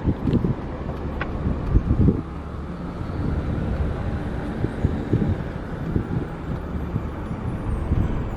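Wind on the microphone: a steady low rumble broken by irregular buffeting gusts.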